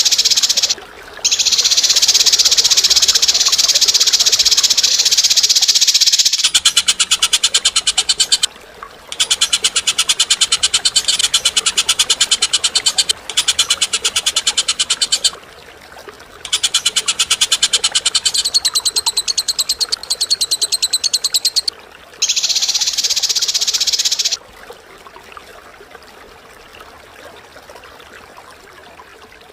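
A bird giving long, high, rapid rattling trills of several seconds each, separated by short breaks, fading to a faint background for the last few seconds.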